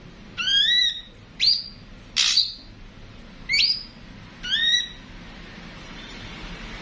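Ashy drongo calling: five short rising whistled notes, the third a harsh rasp, over about five seconds, then it stops.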